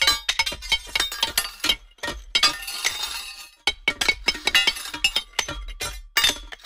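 A rapid, irregular clatter of hard objects clinking and breaking, with a denser crashing burst about two and a half seconds in.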